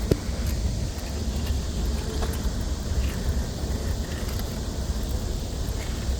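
Wind buffeting a phone microphone carried on a moving bicycle, a steady low rumble with rushing noise, with one sharp click right at the start.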